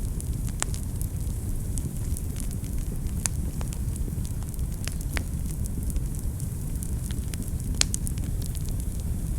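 Wood fire burning in a fireplace: a steady low rumble of flames with irregular sharp crackles and pops, the loudest pop a little under 8 seconds in.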